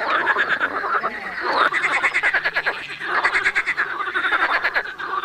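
Animal calls in rapid pulsed trills, coming in repeated bouts about a second long with short pauses between them.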